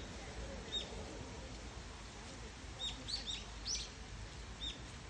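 A small bird chirping: a handful of short, high, sharp notes at uneven intervals, bunched together about three seconds in.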